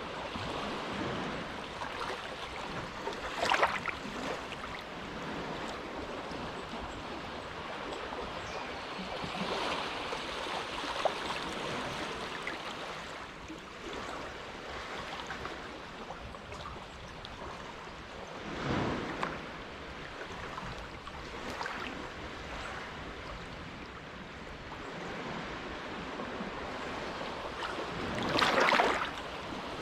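Small, calm waves lapping at the shore of a sheltered inlet: a steady wash of water with three brief louder splashes, about three seconds in, midway and near the end.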